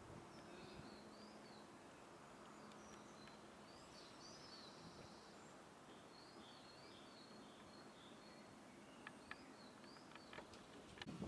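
Near silence: faint outdoor ambience with small birds chirping now and then. A few light clicks come near the end.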